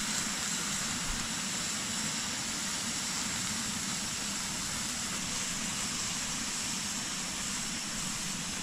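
A butane canister camping stove hissing steadily, with milk sizzling and bubbling around bread slices in a frying pan over the flame.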